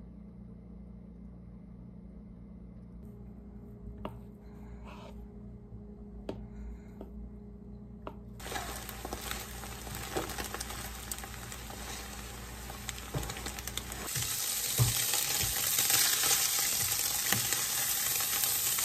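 Thin egg sheet frying in a nonstick pan, a steady sizzle that starts about eight seconds in, then strips of canned ham sizzling louder over the last five seconds. Before the sizzle there is only a low steady hum with a few light clicks.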